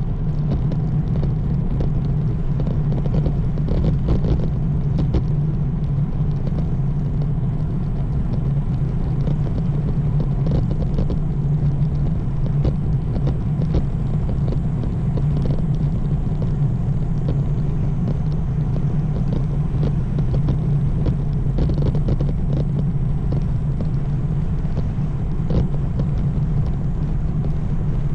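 Steady riding noise from a road bike on a paved path: a continuous rumble of tyres rolling and wind on the microphone, with many small clicks and rattles from the road surface.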